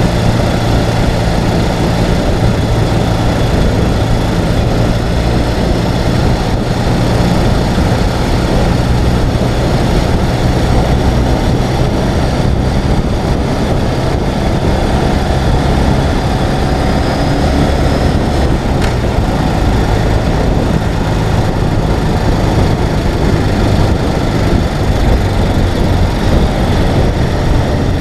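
Ural sidecar motorcycle's air-cooled flat-twin engine running steadily while riding, under a steady rush of wind and road noise.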